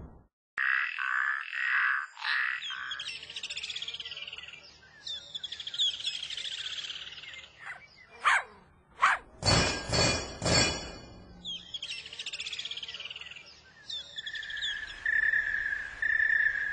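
Birds chirping and singing in a string of short calls, trills and quick rising whistles. A tight cluster of sharp calls comes about ten seconds in, and a held whistle near the end.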